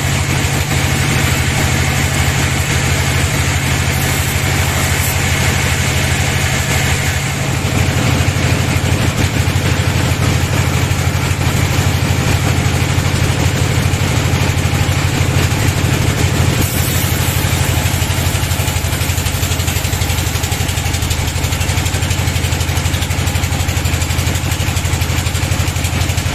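Sawmill bandsaw machine running steadily with a low engine-like hum, getting a little louder about seven seconds in.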